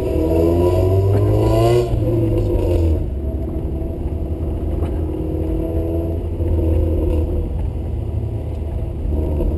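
Mazda MX-5's four-cylinder engine heard from inside the open-top cabin, accelerating hard: its pitch rises, breaks briefly for an upshift just under two seconds in and rises again, then about three seconds in it eases off and runs more quietly at part throttle.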